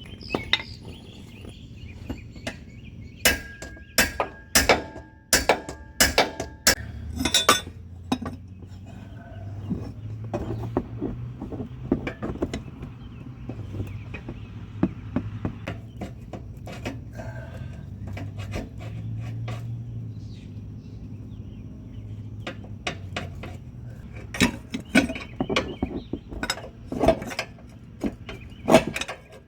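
Metal hand tools, wrench and sockets, clinking and knocking against engine parts in scattered sharp clicks that bunch into two busy spells, one a few seconds in and one near the end, over a low steady hum.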